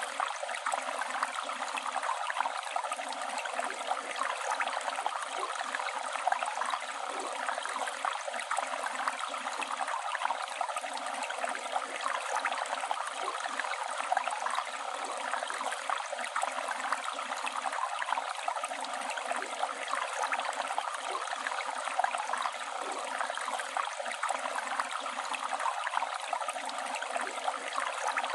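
A river flowing: a steady rush of water with constant small splashes and gurgles.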